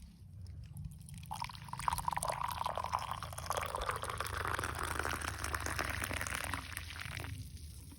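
Liquid being poured into a container for about six seconds. The splashing sound rises in pitch as the container fills, then the pour stops near the end.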